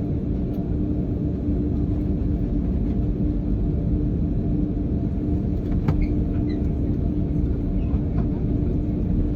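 Steady rumble of a jet airliner heard from inside the cabin, with a constant droning hum through it and a faint click about six seconds in.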